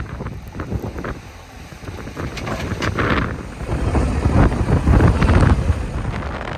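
JCB 3DX backhoe loader's diesel engine working under load, dipping about a second in and then rising to its loudest between four and five and a half seconds, with wind buffeting the microphone.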